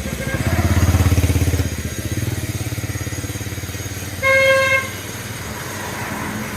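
A small motorcycle engine running close by with a fast, even putter, loudest as it passes about a second in. A single short horn beep sounds about four seconds in.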